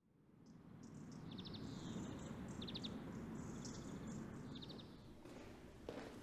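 Garden ambience: a steady low hiss of background noise with small birds chirping, their short rapid trills heard about three times. A few light knocks near the end.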